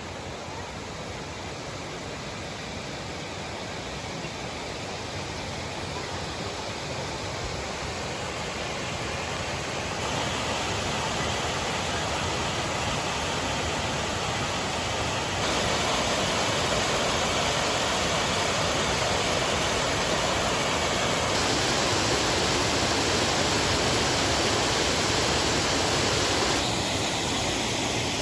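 Waterfall rushing as a steady, even roar of falling water, growing louder in steps and easing slightly near the end.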